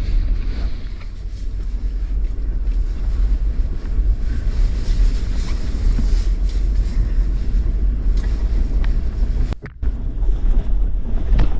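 Jeep driving a snowy trail: a steady low rumble with wind buffeting the microphone. It drops out for a moment near the end.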